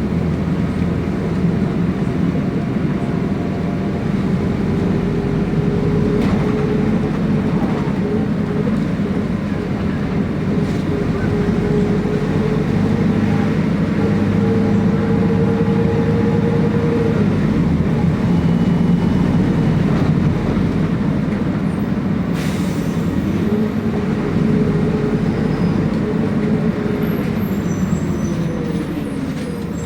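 City bus engine and drivetrain running, heard from inside the bus: a steady drone with a whine that holds its pitch, then drops and climbs again as the bus slows and picks up speed. A brief hiss comes about two-thirds of the way through.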